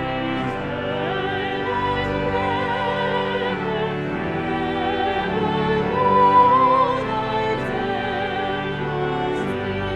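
Classical sung music: a voice singing with vibrato over instrumental accompaniment, rising to a louder high note about six seconds in.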